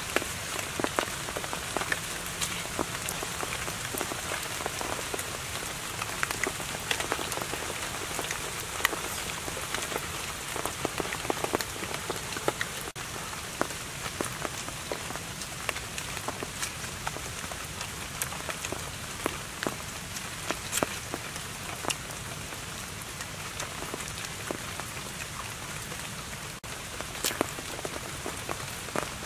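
Rain pattering: an even hiss with many scattered, irregular drop ticks.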